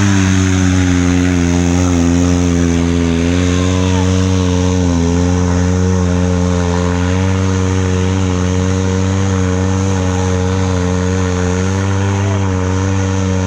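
Yamaha TT-R230 trail bike's single-cylinder four-stroke engine running at a steady speed, its pitch wavering slightly up and down.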